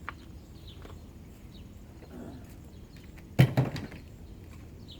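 A small click, then about three and a half seconds in a loud clatter of three or four quick knocks as the air purifier's scrap parts are handled.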